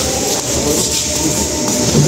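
A large engine running, a steady low rumble with even pulsing and a hiss of background noise above it.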